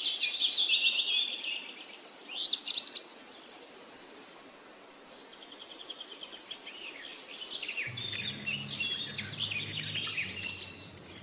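Birds chirping and twittering in quick runs of calls, quieter for a moment near the middle. A low steady hum comes in near the end.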